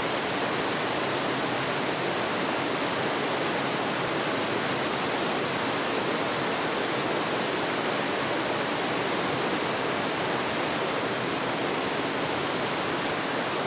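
Steady, even rushing noise of flowing water, without breaks or changes.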